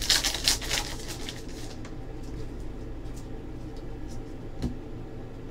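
Trading cards being handled and flipped through, a crisp rustling and sliding for the first second or two, then a single click near the end, over a steady low hum.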